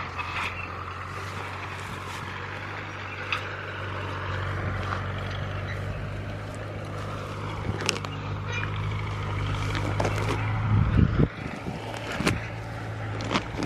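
An engine running steadily with a low, even hum. There are a few sharp clicks, and a brief louder low thump about eleven seconds in.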